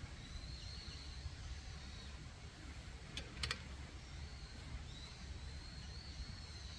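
Quiet outdoor ambience: a low rumble, a faint thin high whistle that comes and goes in stretches of a second or two, and two sharp clicks about three and a half seconds in.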